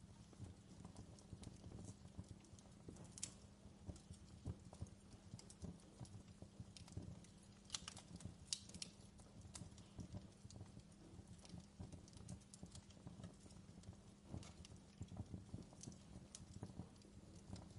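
Fireplace crackling faintly: irregular small pops and snaps over a low steady rumble.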